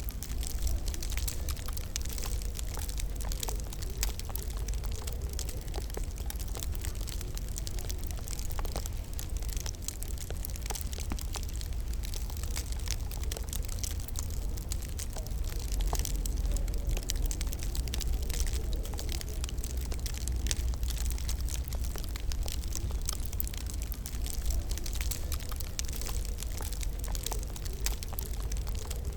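Wood fire crackling steadily, with many small sharp pops over a constant low rumble.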